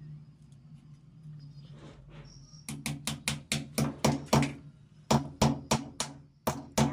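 Sharp knocks in quick runs of about three a second, each with a short low ring, starting about three seconds in after a low steady hum.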